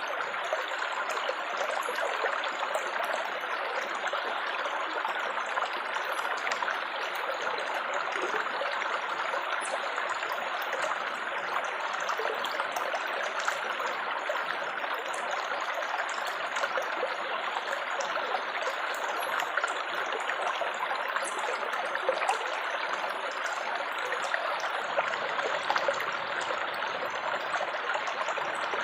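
Steady babbling and trickling of flowing water, like a small stream, with a dense splashing texture.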